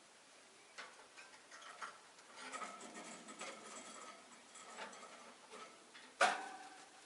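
Rosy-faced lovebirds moving about their cage: irregular small clicks and taps of beaks and feet, with a few faint chirps in the middle. About six seconds in comes one louder knock that rings briefly, like the cage's wire or a hanging toy being struck.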